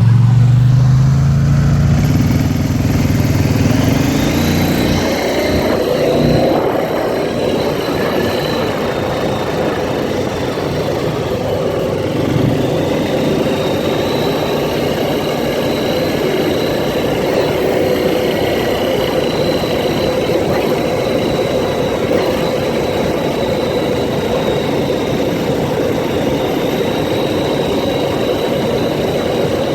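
ATV engine running on the move. Its pitch climbs over the first few seconds as it speeds up, then holds fairly steady.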